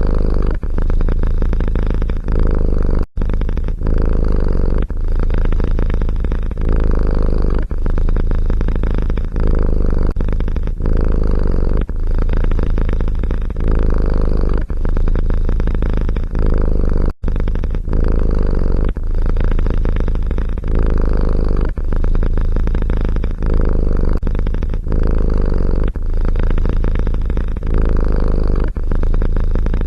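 Domestic cat purring close to the microphone, a steady low purr broken by short pauses about every second or so as the cat breathes. It cuts out for an instant twice.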